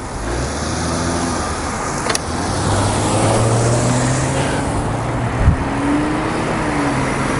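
Motor vehicle engine running and gaining speed, its hum rising slowly in pitch over road noise. A sharp click about two seconds in and a short thump about five and a half seconds in.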